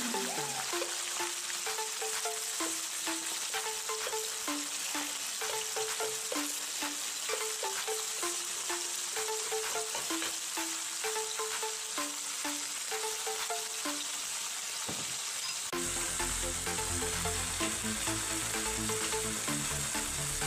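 Eggs and pork fillet pieces frying in oil in a hot nonstick pan: a steady sizzle full of fine crackles, with the eggs being stirred with chopsticks.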